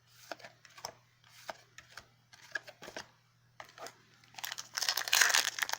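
Trading cards being handled and flipped through with light clicks and snaps, then, about four and a half seconds in, a foil booster pack wrapper crinkling and tearing open.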